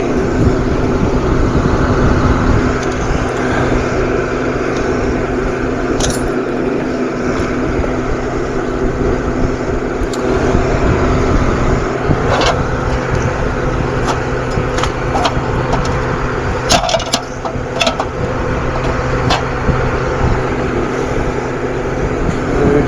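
Steady mechanical hum, with a series of sharp clicks and snips from zip ties being cut, most of them clustered in the second half.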